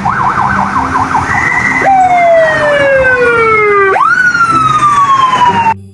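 Siren: a fast up-and-down yelp for about two seconds, then two long falling wails, each opening with a quick rise, cutting off suddenly near the end.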